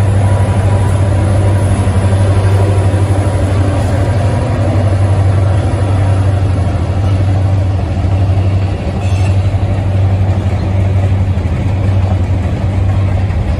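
Diesel-hauled freight train passing: a steady low engine drone from the Susquehanna and CSX locomotives, then the freight cars rolling by on the rails.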